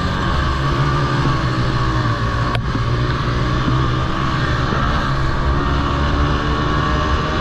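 Several small Honda TRX90 youth quads' four-stroke single-cylinder engines running together in a race, their overlapping notes rising and falling as riders throttle on and off. A single sharp click about a third of the way in.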